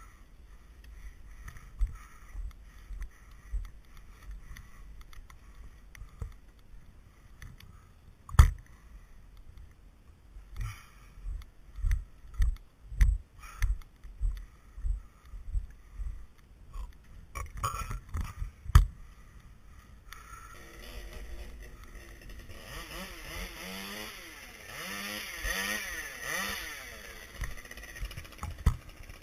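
Scattered knocks and thumps, with one sharp click about eight seconds in. About twenty seconds in, a chainsaw starts running and its engine speed wavers up and down.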